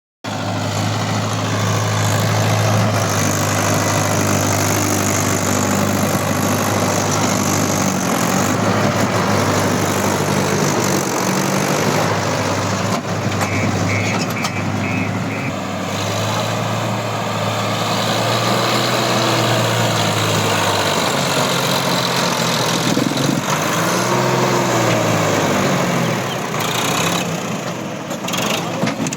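Mahindra Yuvo 575 tractor's diesel engine running, its pitch sagging and picking up again a few times, with a clear rise and fall of revs late on.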